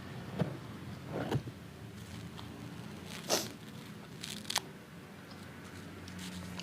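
Close-up eating sounds: a handful of crisp bites and mouth smacks on crunchy fried chicken with its meal, the loudest about three seconds in, over a low steady hum.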